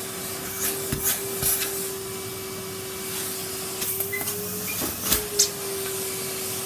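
Henry canister vacuum cleaner running with a steady motor hum and hiss, broken by scattered clicks and knocks; the motor's pitch rises briefly about four and a half seconds in.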